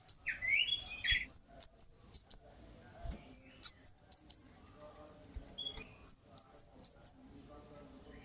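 Cit kemade bird calling: three groups of four or five sharp, high chirps, each group lasting about a second, with a lower, rising scratchy call near the start.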